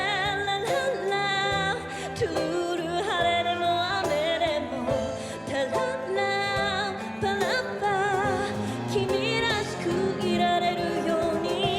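Live ballad performance: singing with vibrato over an accompaniment of piano, cello and percussion.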